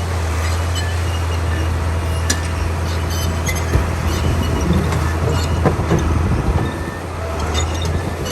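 Diesel engine of a Komatsu D41P crawler bulldozer running steadily at work, with scattered clicks and knocks over the engine note.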